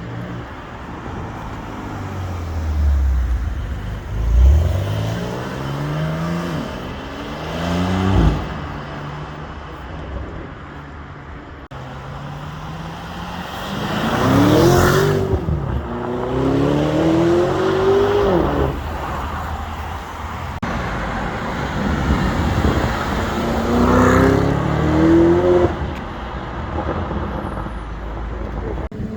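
Supercar engines accelerating hard, each climbing in pitch and dropping back several times as it shifts up through the gears, in three separate loud runs.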